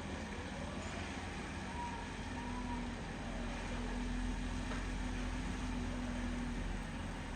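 An engine running steadily with a low rumble, a steady hum rising over it for a few seconds in the middle.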